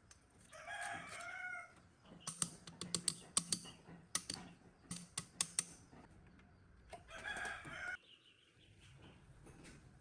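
A rooster crowing twice, each crow about a second long, near the start and again near the end. Between the crows comes a quick run of sharp clicks and taps, like small metal parts being handled.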